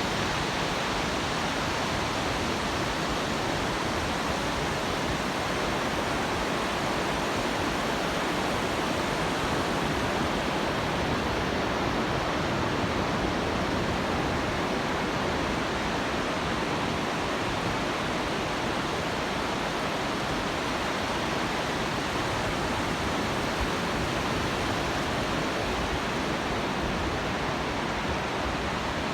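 Pacific Ocean surf on a rough day: a steady, even wash of breaking waves blended into one unbroken noise, with no single wave standing out.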